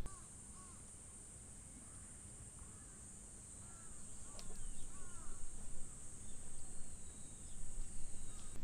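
Summer outdoor ambience: a steady high-pitched insect drone, with a bird giving a run of short calls in the first half. A low rumble swells from about halfway.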